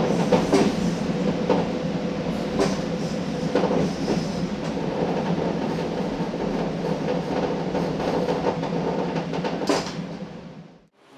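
JR Hokkaido KiHa 40 diesel railcar running along the track: a steady rumble with a faint steady tone and occasional clicks of the wheels over rail joints. The sound fades out quickly near the end.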